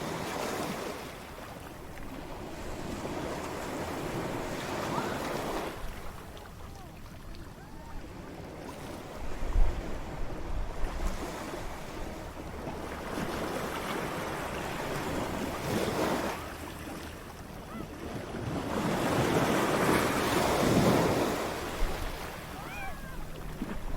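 Ocean waves breaking and washing up the shore in slow surges, the largest swelling near the end. Wind buffets the microphone, with a low thump about nine seconds in.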